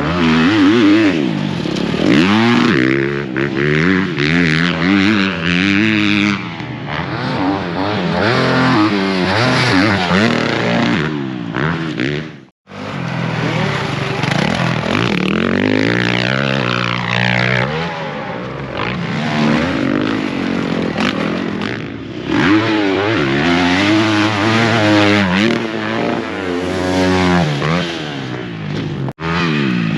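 Motocross dirt bike engines revving hard on a track, the pitch climbing and dropping again and again with throttle and gear changes. The sound drops out abruptly for a moment twice, about twelve seconds in and just before the end.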